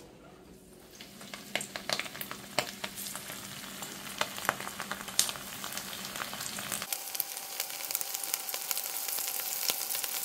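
Flour-and-cornstarch-coated chicken wings frying in hot oil in a skillet. The oil sizzles with sharp crackles and pops, building up and growing louder as more wings go into the pan.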